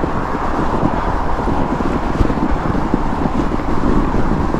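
Wind rushing over the microphone of a moving fat bike, over the steady rumble of its studded tires rolling on packed snow.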